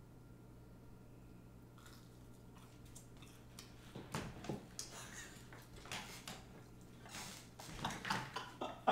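Faint chewing and crunching of a sugar-coated churro, starting about four seconds in after a stretch of near silence, with scattered soft clicks that grow busier toward the end.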